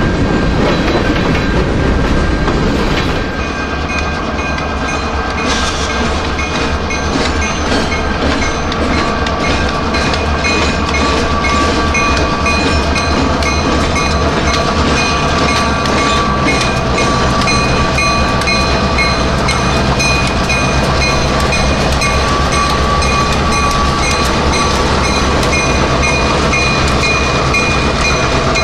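Freight train passing close by: covered hopper cars rolling with wheels clacking over the rail joints, then diesel locomotives working under load as they pull a string of hopper cars past. The engines give a steady low rumble with a steady whine above it, and the wheels keep up a dense clacking.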